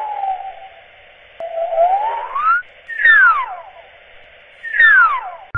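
Sci-fi flying-saucer sound effect: a sliding electronic tone that falls, rises, then falls twice more in quick swoops, over a faint hiss.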